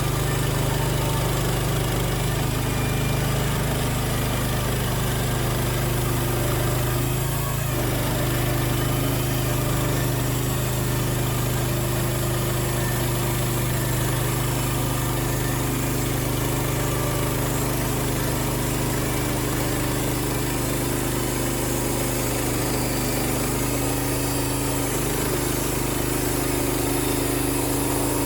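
Wood-Mizer LX55 portable sawmill's 14 hp engine running steadily with a constant hum, its pitch shifting slightly about eight seconds in.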